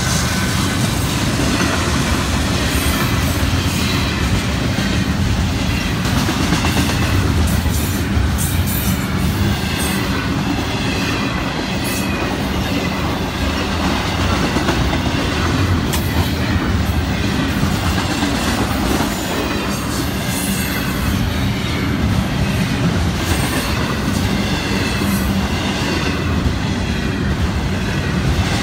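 Florida East Coast double-stack intermodal freight cars rolling past close by: a steady, loud rumble with the clatter of wheels over the rail, and a faint high wheel squeal coming and going.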